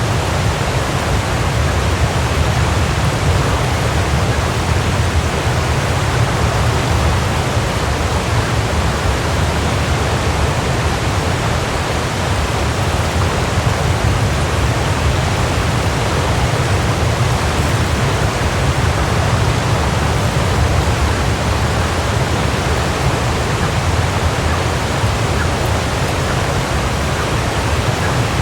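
Waterfall: water falling and splashing in a steady, unbroken rush with a heavy low rumble.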